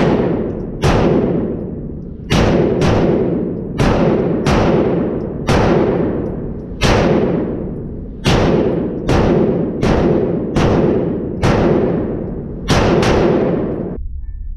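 9mm Glock 19 Gen 4 pistol in a CAA Micro Conversion Kit firing about seventeen shots at an uneven pace, roughly one a second, each shot followed by a long echo.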